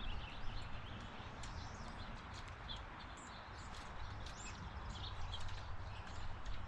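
Small birds chirping, short high calls scattered throughout, with a few light taps over a steady low rumble.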